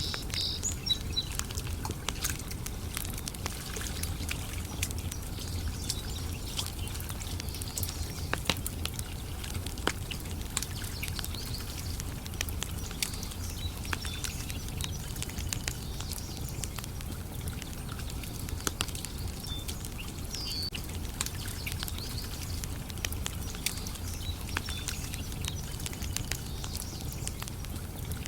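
Wood campfire crackling, with frequent sharp pops and snaps over a steady low rumble. A bird chirps briefly about twenty seconds in.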